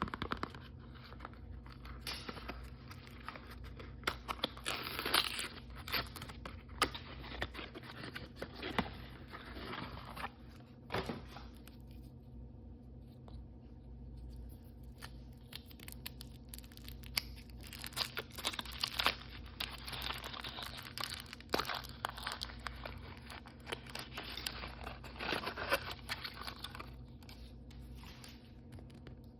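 Hands tearing open and crinkling plastic blind-bag packaging, with scratchy rustles and sharp crackles in two busy stretches and a quieter pause between them.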